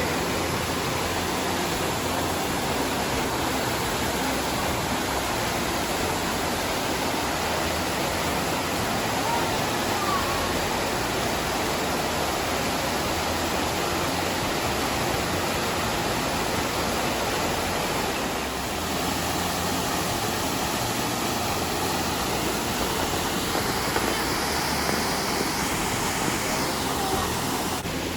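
Waterfall rushing close by: a steady, even noise of falling water.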